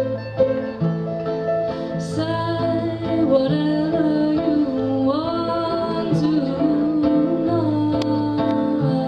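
Live band music: plucked and strummed guitar over a stepping bass line, with a voice singing a melody.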